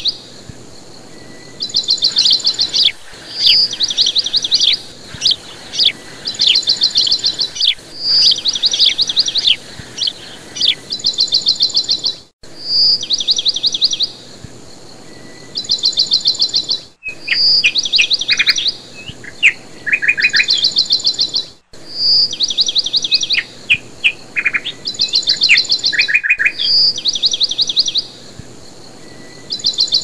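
Bird song: a short high whistle followed by rapid chirping trills, the same phrase pattern repeating about every four and a half seconds with a brief dropout to silence between repeats, as in a looped recording.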